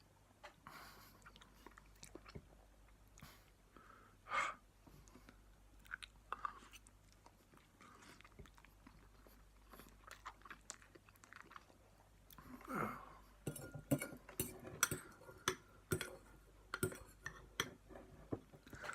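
A person quietly chewing and eating spicy instant noodles. There are two short louder breaths or sniffs, and a run of small sharp clicks and taps over the last five seconds or so.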